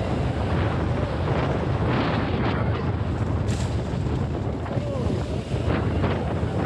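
Heavy wind buffeting the microphone while riding a modified Razor MX6000 electric dirt bike, with a couple of short rising-and-falling whines.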